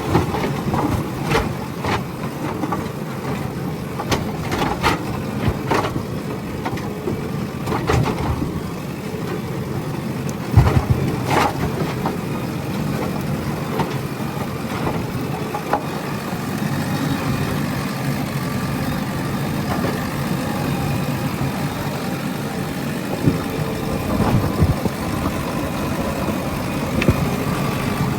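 JCB backhoe loader's diesel engine running steadily at work, with a run of sharp knocks and clunks in the first twelve seconds, the loudest about ten seconds in.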